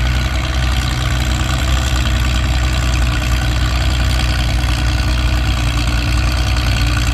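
Antique Diesel 88 tractor's diesel engine lugging under heavy load as it drags a pulling sled down the track, a steady low-revving run.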